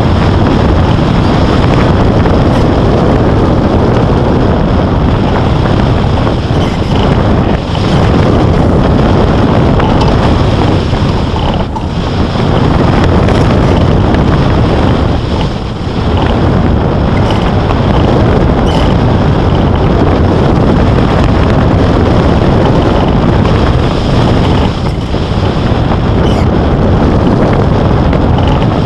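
Loud, steady rush of wind buffeting the microphone, heaviest in the low rumble, with a few brief dips in level.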